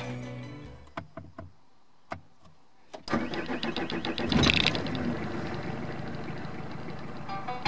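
A few soft clicks, then a Renault Clio's engine starts about three seconds in and keeps running.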